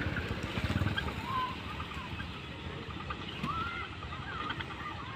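A TVS Apache RTR motorcycle's single-cylinder engine dies away within about the first second. Then a few short, rising-and-falling bird calls sound over a low background.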